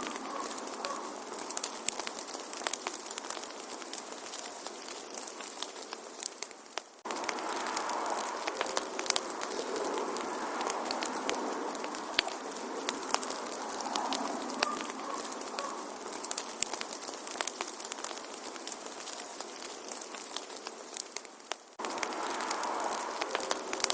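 Wood fire in a fireplace crackling, with many sharp pops over a soft hiss. The sound sinks for a moment and cuts back in abruptly about seven seconds in and again near the end.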